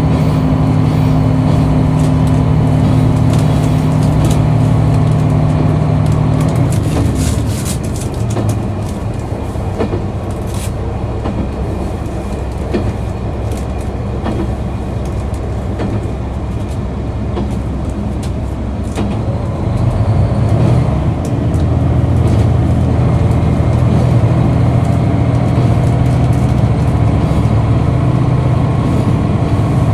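KiHa 261 series diesel railcar engine running steadily under power. About six seconds in, the engine note falls away and the train runs on more quietly with scattered clicks. Around twenty seconds in, the engine comes back under power at a lower pitch.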